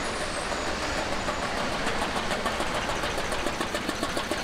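Veteran car's engine puttering with a rapid, regular beat as the car approaches, the beat growing clearer from about a second and a half in.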